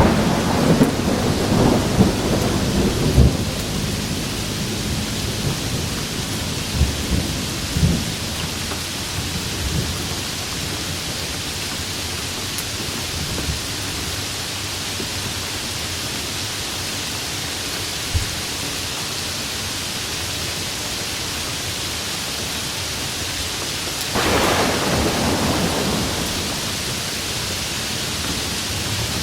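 Steady rain falling through a thunderstorm. Thunder cracks and rumbles over the first few seconds, cracks briefly again about eight seconds in, and rumbles once more a little before the end.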